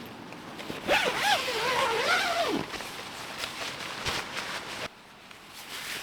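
A tent zipper pulled in one long stroke of about a second and a half, its rasp wavering up and down in pitch as the pull speeds and slows around the door.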